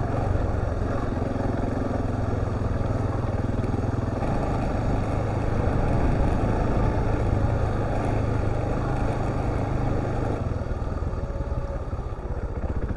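Husqvarna TR650 motorcycle's single-cylinder engine running at a fairly steady pace while the bike rides along.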